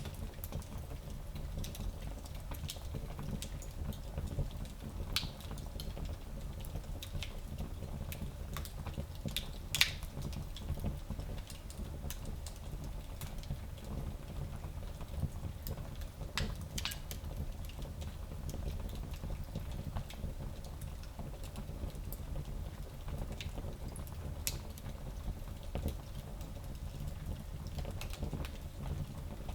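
Small wood fire burning in a fireplace: a steady low rumble with scattered sharp crackles and pops, the loudest pop about ten seconds in.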